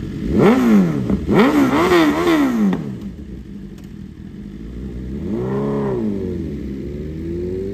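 Sport motorcycle engines revving, really loud: a quick run of throttle blips in the first three seconds, then one rev rising and falling about five seconds in, and another rising near the end.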